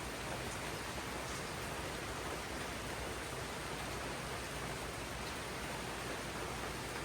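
Steady, even rainfall in a tropical jungle, a dense hiss of drops on foliage without a break.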